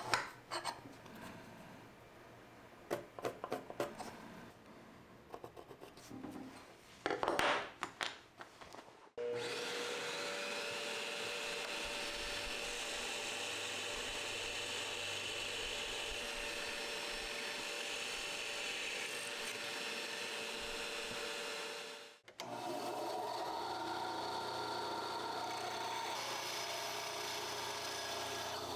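Woodworking on timber: for the first few seconds, irregular strokes of a hand tool rubbing or sawing the wood. From about nine seconds a power tool runs steadily with a constant whine, stops abruptly near 22 seconds and starts again.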